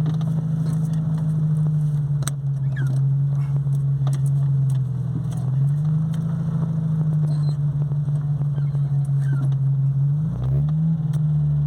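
Chevrolet Corsa Spirit's engine running steadily under way, a steady drone whose pitch rises about halfway through, then dips and rises again near the end.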